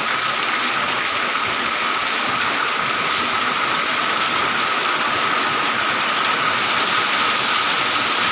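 Heavy rain pouring down in a steady, dense hiss, with a faint steady high tone running through it.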